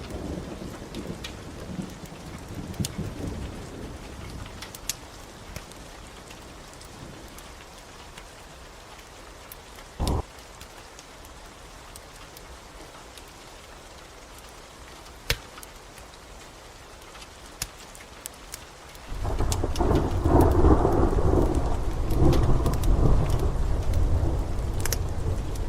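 Steady rain with sharp, scattered crackles of a wood fire. A low thunder rumble dies away over the first few seconds, and about nineteen seconds in a loud roll of thunder breaks and rumbles on.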